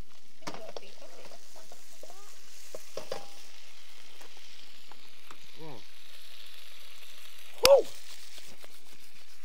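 Chicken for pad kaprao frying in a hot pan with its seasoning, oyster and fish sauces, a steady sizzle as the sauce cooks down toward caramelizing. A single sharp knock, the loudest sound, comes about three-quarters of the way through.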